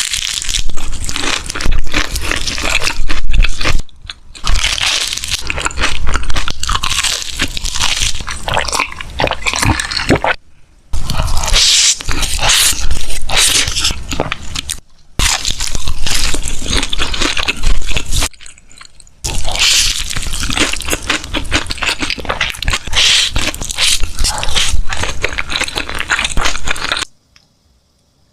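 Crunching and chewing of crispy chicken: loud crackly bites in long runs, broken by a few short pauses, and stopping about a second before the end.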